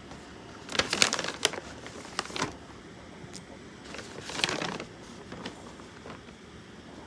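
Dry dog food being readied in a bowl: kibble rattling and packaging crinkling in two short bursts of clicks and rustles.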